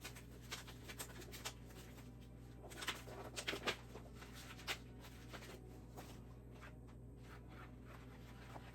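Faint rustling of paper and scattered light clicks as ring binders of old bank statements are handled and leafed through, over a steady low room hum.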